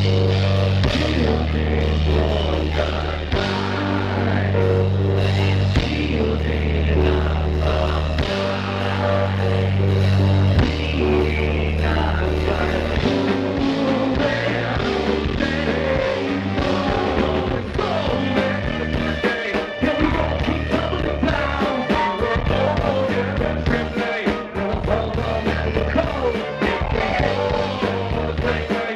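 Live band playing rock music, with bass and guitar. Long held bass notes change about every two and a half seconds in the first half, and the playing grows busier from about halfway.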